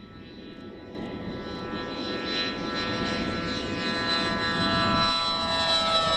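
An aircraft's engines whine and rush steadily, growing louder from about a second in as the aircraft approaches.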